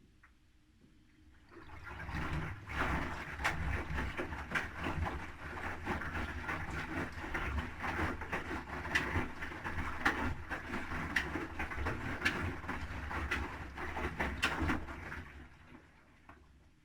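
Haier front-loading washing machine's drum turning through a tumble, with laundry and water sloshing and clattering inside over a low motor hum. It starts about a second and a half in and fades to a stop after about thirteen seconds.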